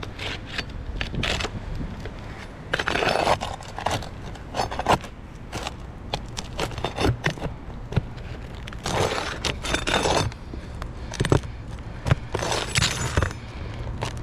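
A metal tool scraping and clicking against asphalt roof shingles in irregular bursts as roofing nails are worked loose under a shingle.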